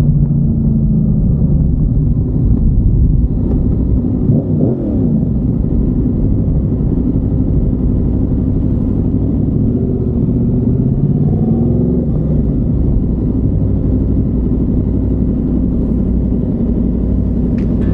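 Yamaha MT-10's crossplane inline-four running through an SC Project carbon-titanium exhaust, heard on board while riding: a steady engine note with a low rumble underneath, the revs rising and falling briefly about four seconds in and again between ten and twelve seconds in.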